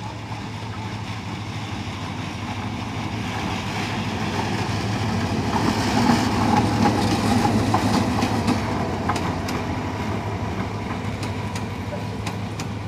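Diesel locomotive hauling a passenger train past at close range: its engine drone swells to loudest about six seconds in as it goes by, then eases off. In the second half the coaches' wheels click over the rail joints as they roll past.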